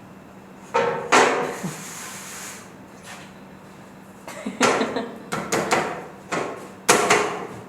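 Kitchen handling sounds: a series of sharp knocks and clatters, two about a second in and a quicker cluster in the second half. A faint steady hum runs underneath.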